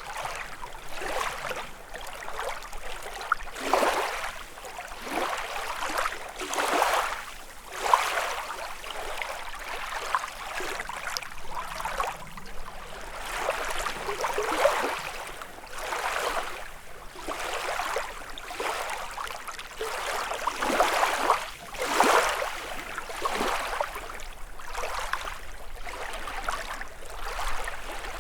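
Small lake waves lapping and splashing against the shore, an irregular splash every second or two with a few louder ones.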